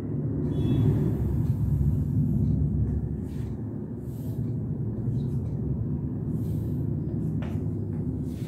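Chalk scraping on a blackboard in short strokes as lines and arrows are drawn, over a steady low rumble.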